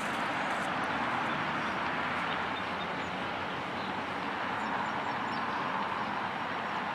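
Steady rushing noise with no clear tone or rhythm, like outdoor wind, traffic or running water.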